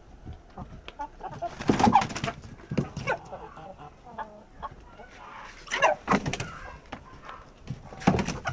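A flock of pejantan cockerels clucking, with a few loud squawks breaking out over the steady chatter every couple of seconds.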